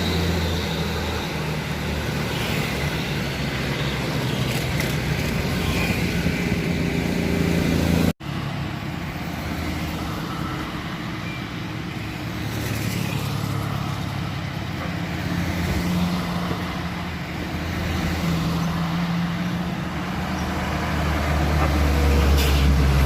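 Road traffic on a steep incline: motor vehicle engines running with a low hum that rises and falls in pitch. The sound cuts out for an instant about eight seconds in.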